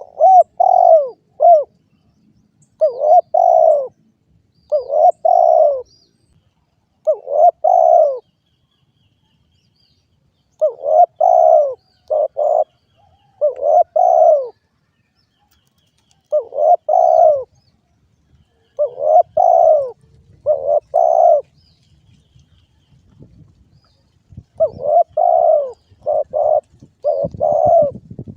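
Derkuku dove cooing in short phrases of two or three coos, repeated every couple of seconds, with a pause about a third of the way in and another shortly before the end. Faint high chirps of small birds sound behind it, and a low rumble comes in near the end.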